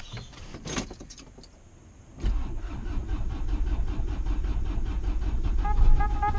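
Van engine being turned over by the starter, a sudden low sound with a fast even pulse that begins a little after two seconds in and runs for several seconds: a reluctant start. A steady high tone joins in near the end.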